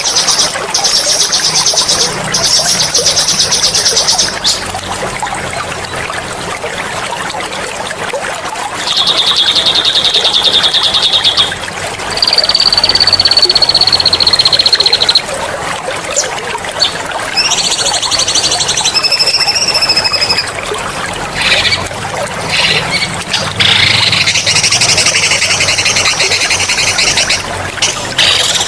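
A songbird sings loud, fast, high trills, with a long steady high whistle in the middle and more varied notes later, over a steady trickle of running water.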